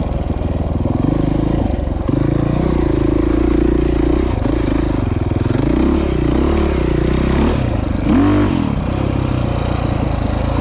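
Off-road vehicle engine running on the trail, its pitch rising and falling repeatedly with the throttle, with a quick rev up and back down about eight seconds in.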